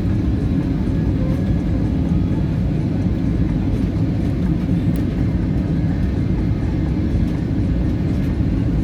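Airliner cabin noise heard from inside the plane: a steady, even low rumble of engines and airflow.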